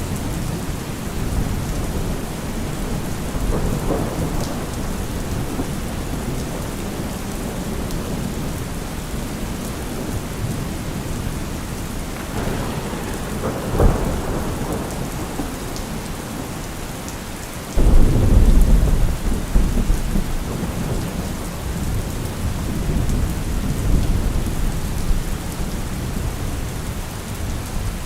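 Thunderstorm: steady rain with rolling thunder. A sharp crack comes about halfway through, and a few seconds later a sudden loud thunderclap breaks in and rumbles on for several seconds.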